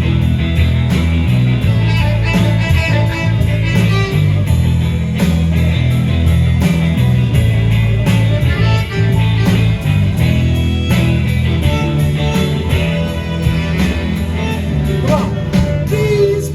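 Live rock band playing an instrumental passage between sung lines: guitar to the fore over bass and drums keeping a steady beat.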